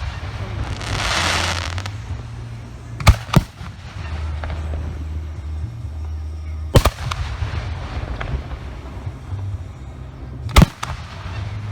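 Professional aerial firework shells bursting with sharp bangs: a quick double bang about three seconds in, another near seven seconds and one more near the end, with a burst of hissing about a second in.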